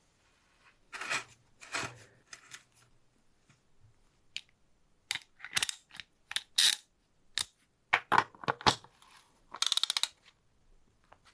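Metal tools and bicycle parts clinking and clicking during a repair, a series of separate sharp knocks and clinks, with a short run of rapid ratcheting clicks near the end.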